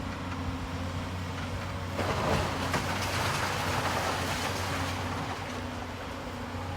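Demolition excavator's diesel engine running steadily under load while it crushes a building's walls; from about two seconds in, a dense crunching and crackling of rubble and debris being broken and shifted joins the engine.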